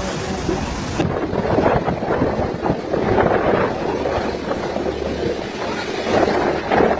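Typhoon wind and rain gusting hard against the microphone, a loud, uneven rushing noise that shifts character about a second in.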